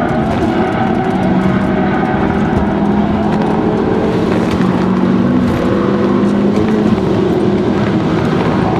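Volvo five-cylinder turbo engine running hard at speed, heard from inside the cabin, its pitch holding nearly steady.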